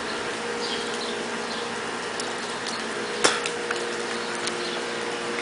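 Steady background hum and hiss with scattered small high clicks and chirps, and one sharp click about three seconds in.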